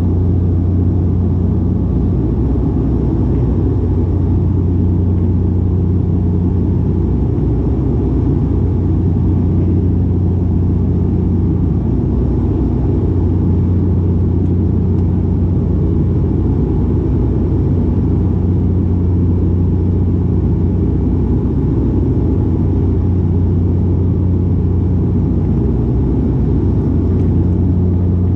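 Cabin sound of a De Havilland Canada Dash 8-400's two turboprop engines and six-blade propellers running steadily: a loud, even low propeller drone over a rumble, with its upper tone swelling and fading slowly as the two propellers beat against each other.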